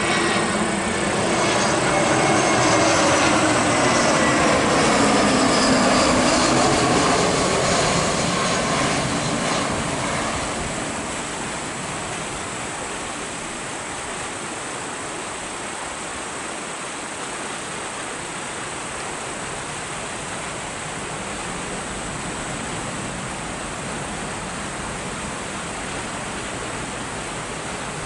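Airliner passing close: its engine whine and roar glide down in pitch as it goes by, loudest over the first several seconds. The sound then settles into a steady, even rushing noise.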